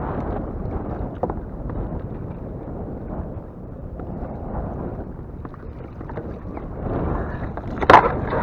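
Wind buffeting the microphone over choppy water around a kayak, a steady rumble with scattered knocks, and one loud sharp knock near the end.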